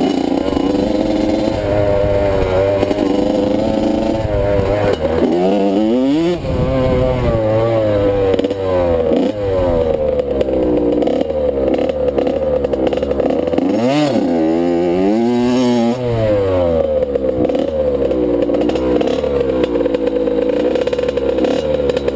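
Motocross bike engine revving up and falling back over and over as the throttle is opened and closed through the ride, with clattering from the bike, heard from a helmet-mounted camera.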